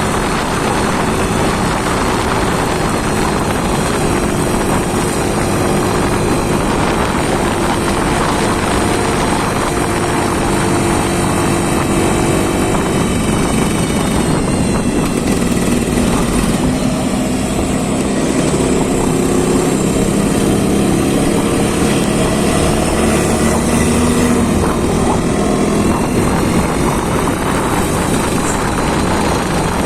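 An engine running loud and steady under test, its pitch drifting slowly up and down as the speed wavers slightly.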